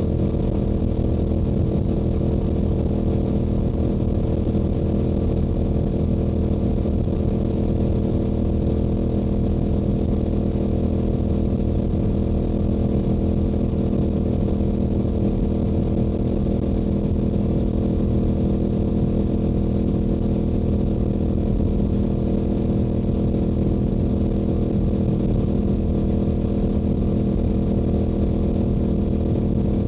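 Stock Yamaha YZF-R7's 689 cc parallel-twin engine and exhaust at a steady highway cruise, holding one engine speed with no rises or falls.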